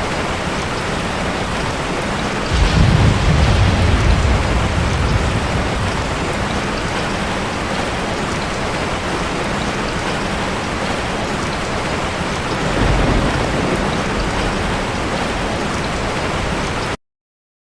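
Ocean surf: a steady wash of water, with a wave breaking more heavily about three seconds in and again about thirteen seconds in. The sound cuts off abruptly just before the end.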